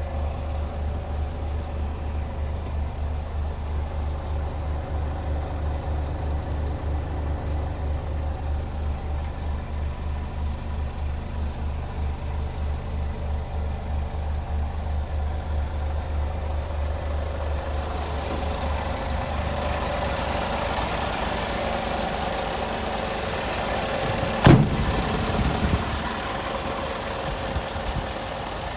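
Scania G440 truck's diesel engine idling with a steady, rapid low throb. About 20 seconds in the throb fades, and a single sharp knock follows a few seconds later.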